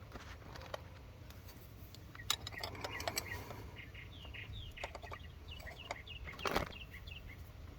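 Faint clicks and taps of a wrench working the carburetor's fuel inlet line fitting, with a louder knock about six and a half seconds in. A small bird chirps in quick runs in the background through the middle.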